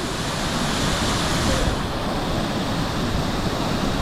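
Waterfall: a steady rush of falling water, with a brighter hiss for the first second and a half or so that then drops away.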